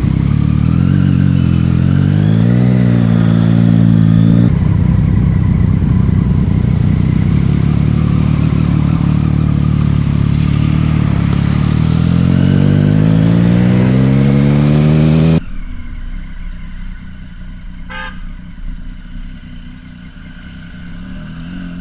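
Motorcycle engine accelerating hard, its pitch climbing, dipping briefly, then rising in one long steady pull. About two-thirds of the way through the sound cuts off abruptly to a much quieter, steady engine sound, with a single sharp click a couple of seconds later.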